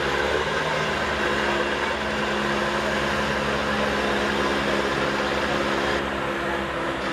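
Engine running at a steady idle, its tone unchanging.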